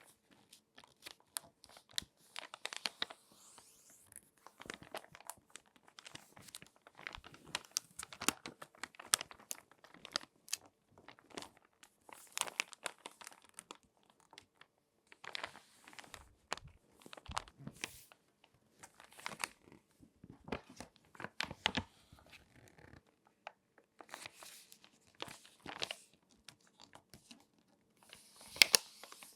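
Glossy magazine pages being folded and crinkled by hand close to the microphone: irregular crisp crackles and rustling swishes, with a few louder sharp snaps of paper near the end.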